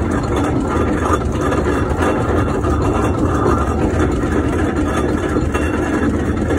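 1914 Fowler showman's steam engine running, a loud steady rumble with no clear beat.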